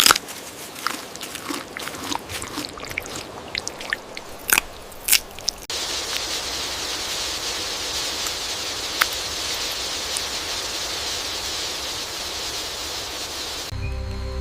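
Irregular crunching and cracking, like something being bitten or chewed, for about the first five seconds. It gives way abruptly to a steady hiss, and music comes in near the end.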